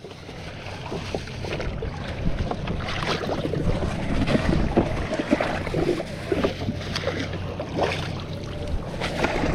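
Irregular rustling, knocks and light splashing from handling a fish into a bag of water, with wind on the microphone.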